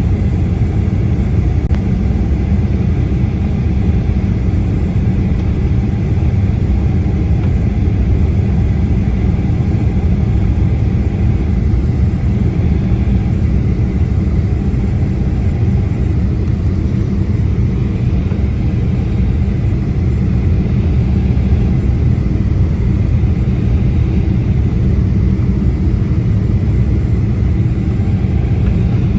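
Airliner cabin noise: a steady low rumble of engines and airflow heard from inside the passenger cabin.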